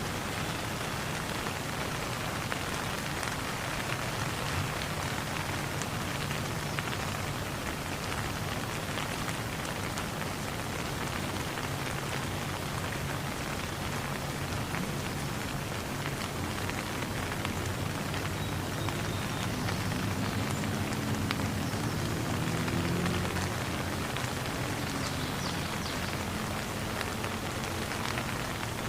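Steady rain falling and pattering on surfaces, an even hiss of many drops with scattered individual drop ticks.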